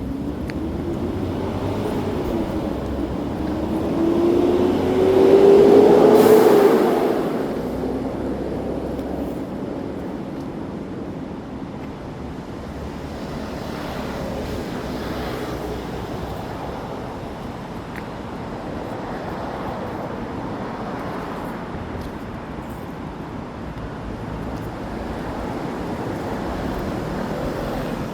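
Street traffic running steadily. One vehicle passes close, its engine note rising in pitch, and is loudest about six seconds in.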